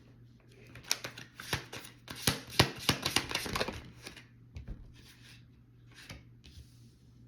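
A deck of oracle or tarot cards being shuffled by hand: a quick run of card flicks and slaps for about three seconds, then a few single taps and slides as cards are drawn.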